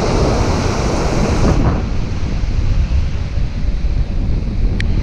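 Wind buffeting the microphone over the wash of shallow surf running up a sand beach.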